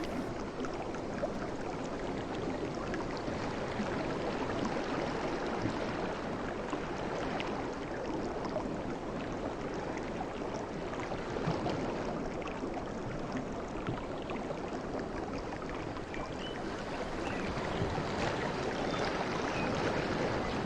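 Sea waves washing on a shore as a continuous rush of surf with a fine crackling fizz, swelling a little near the end.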